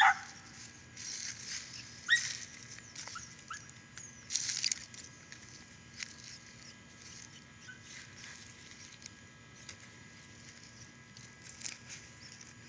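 Scattered short, high-pitched animal chirps and squeaks, the loudest falling in pitch right at the start, with a brief rustle about four and a half seconds in.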